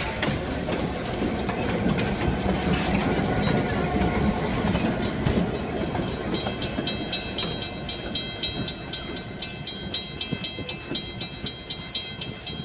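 Diesel passenger train rumbling past on the rails. About halfway through, a railroad crossing bell starts ringing in fast, even strokes over the train's rumble.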